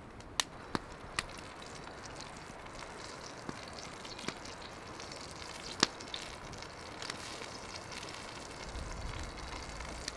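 Wood campfire crackling: a steady hiss with scattered sharp pops, a few in the first second and the loudest about six seconds in.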